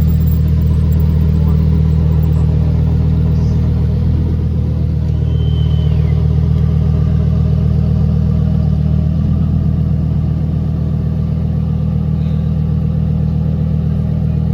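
A car engine running at a steady idle, an even low hum with no revving. A brief high whistle comes about five seconds in.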